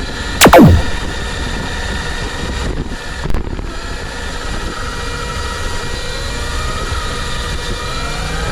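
Brushless electric motor of an FPV RC car (Apex 4076 2500 KV), its whine rising and falling in pitch with the throttle over a steady rumble and wind noise. About half a second in there is a loud, quick sweep falling from very high to low pitch, and a short knock a little over three seconds in.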